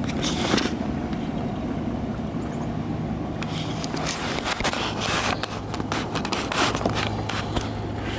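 Inboard engine of a 1955 Lyman Islander boat running with a steady low hum that drops a little in pitch about halfway through. A run of sharp clicks and knocks comes through the second half.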